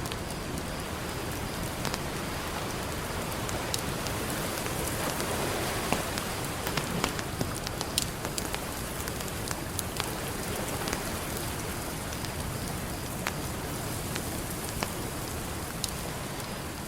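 A campfire crackling, with frequent sharp pops and snaps, over a steady rush of ocean surf that swells a little midway.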